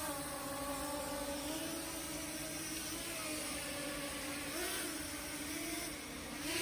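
Brushless motors and propellers of a 7-inch FPV quadcopter (DYS 2207 1750KV motors) spinning, a steady whine whose pitch wavers slightly with throttle, bending up briefly about four and a half seconds in.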